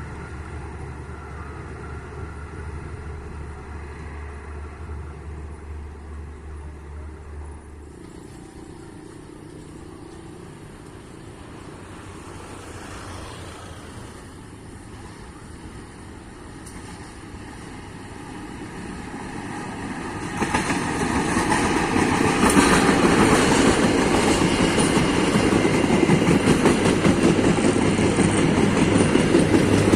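A train approaching and passing close by, its wheels rumbling and clattering over the rails; it gets suddenly much louder about two-thirds of the way through and stays loud. Earlier a low steady hum stops about a quarter of the way in.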